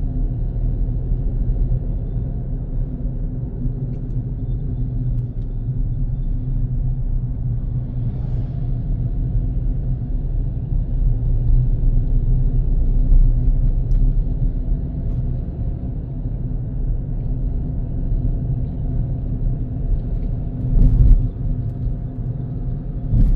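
Car driving along a road: a steady low engine and tyre rumble, with a few short thumps from bumps in the road, the loudest near the end.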